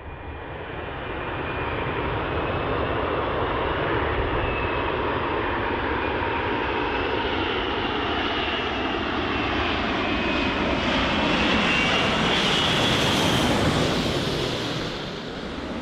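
Jet airliner engines passing close by: a loud, steady roar with a high whine that builds to its loudest about three-quarters of the way through, then starts to fade.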